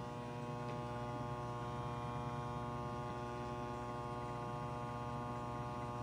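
Microwave oven running off a 2000-watt power inverter on a 12-volt battery, giving a steady buzzing hum made of many even tones. The owner puts the buzz down to the battery not giving the inverter enough juice.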